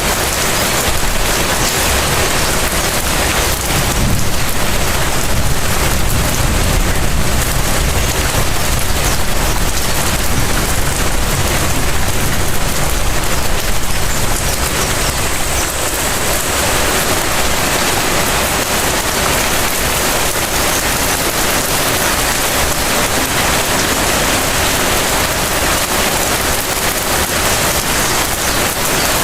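Steady light rain falling on surfaces around a house, an even hiss of drops with a low rumble underneath. It is a little louder in the first half, then eases slightly.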